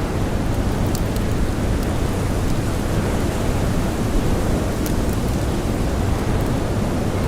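Steady blizzard wind rushing with a deep rumble, with a few sharp crackles of a campfire scattered through it.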